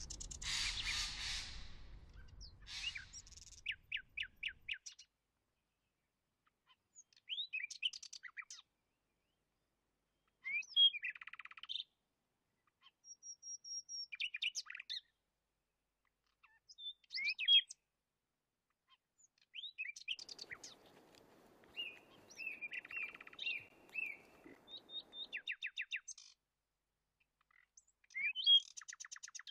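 Birds chirping and calling in short phrases and quick trills, with pauses of a second or two between them. A short rushing noise comes at the very start.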